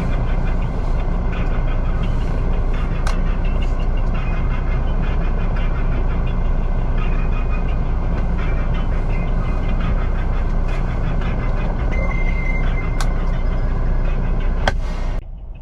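Truck running: a steady, loud low rumble with light clicks and rattles over it, cutting off suddenly near the end.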